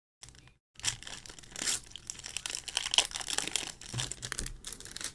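Plastic trading-card packaging being handled, crinkling and tearing open in irregular crackles.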